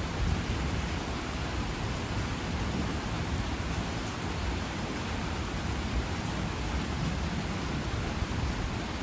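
Heavy rain falling steadily, with distant thunder rumbling low underneath.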